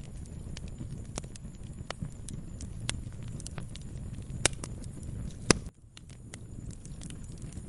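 Wood fire crackling in a fireplace: a steady low rumble of flames with frequent small snaps and two loud pops about four and a half and five and a half seconds in. The sound briefly drops out just after the second pop.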